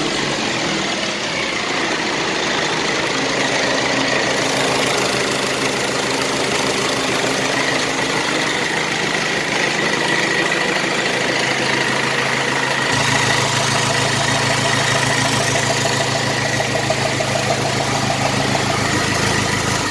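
Cummins 4BT four-cylinder diesel engine idling steadily, its valve cover off so the valvetrain is exposed. A steady faint whine runs above the engine note, and the low hum grows stronger about thirteen seconds in. The engine is blowing exhaust smoke at idle.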